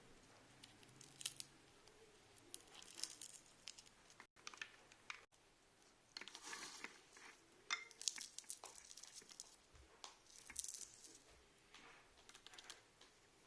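Faint, intermittent crinkling and rustling: short crackly clusters of small sounds every second or so, with a few brief clicks.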